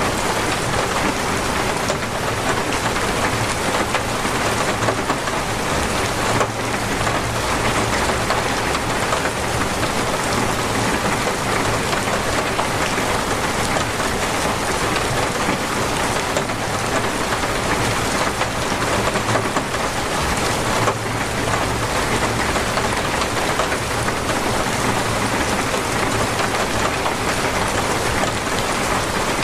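Heavy, torrential rain falling and drumming steadily on surfaces.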